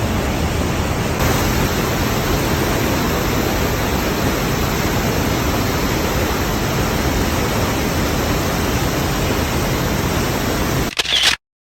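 Steady, loud rush of Iguazu Falls' water pouring down close by, with strong wind buffeting the microphone; it cuts off suddenly near the end.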